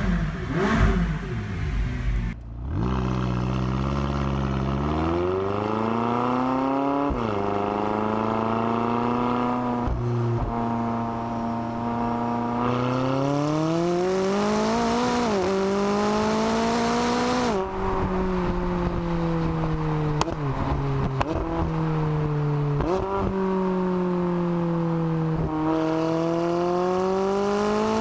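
McLaren 570S 3.8-litre twin-turbo V8 driving through the gears. The engine note climbs in pitch, then drops sharply at each upshift, several times, with some stretches held at a steady pitch. The first couple of seconds are louder and more uneven revving.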